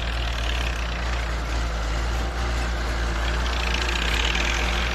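Ford 8210 tractor's six-cylinder diesel engine running steadily while pulling a four-disc plough that chops and buries sugarcane trash.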